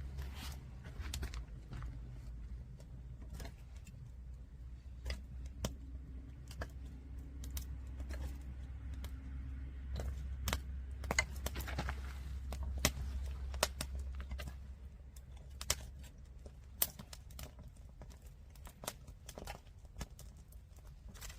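Wood fire burning in a stacked-log firewood tower, crackling with scattered sharp pops over a low rumble that fades about 16 seconds in.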